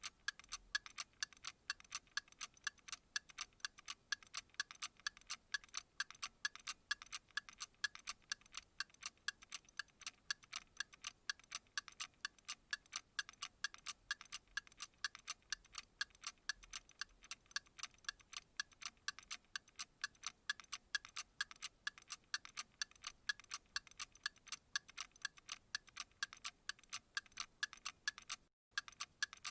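Clock ticking steadily and quickly, a sharp, even tick several times a second, with a momentary dropout near the end.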